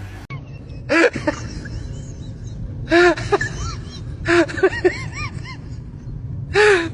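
An animal vocalising in four bursts of short, pitched cries that rise and fall, over a steady low hum.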